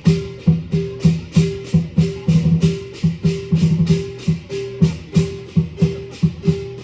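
Chinese lion dance percussion: a large drum struck in a steady beat of about two strikes a second, with cymbals clashing on the strokes.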